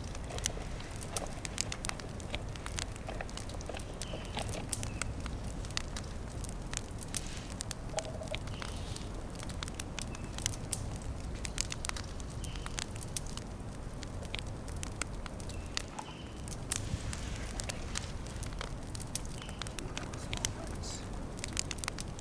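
Small campfire crackling, with frequent sharp, irregular pops over a steady low rumble.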